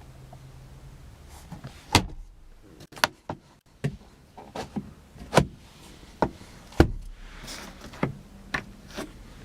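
About a dozen sharp clicks and knocks at irregular intervals from a 1998 Lexus ES300's door and interior fittings being handled: latches, handles and trim.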